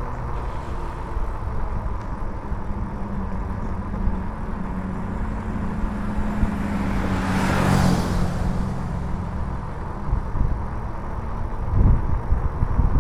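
A motor vehicle passes close by about halfway through, its noise swelling and then fading, over a steady low rumble of wind and road noise on the moving microphone.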